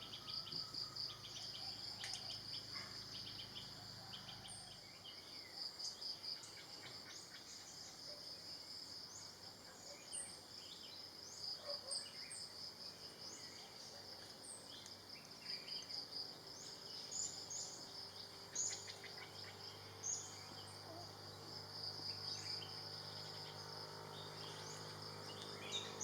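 Steady, rapidly pulsing high-pitched insect chorus of a tropical forest, with short high bird chirps scattered throughout.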